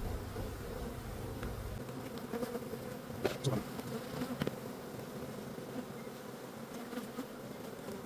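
Honey bees buzzing steadily around an open hive, a continuous low hum. A couple of light knocks sound about three and four and a half seconds in.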